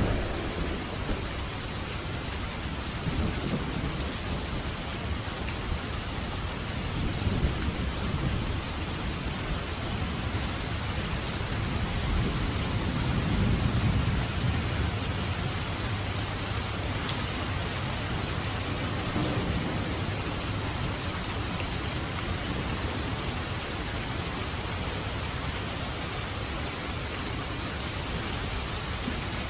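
Steady rain drumming on a roof, with rolling thunder. A low rumble builds and peaks about halfway through, then fades back under the rain.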